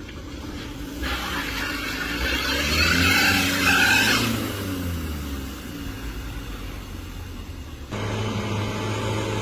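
A motor vehicle passes close by: engine and tyre noise swells to its loudest about three to four seconds in, its engine pitch bending up and then down as it goes past, then fades. Near the end the sound cuts abruptly to a steady, low engine hum.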